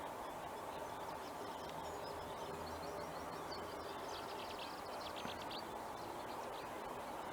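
Small songbirds singing over a steady hiss of outdoor background noise, with a quick run of sharp, high notes about halfway through.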